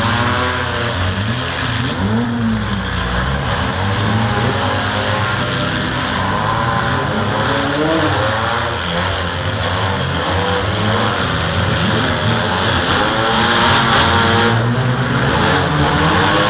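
Engines of several small demolition derby cars revving, their pitch rising and falling over one another.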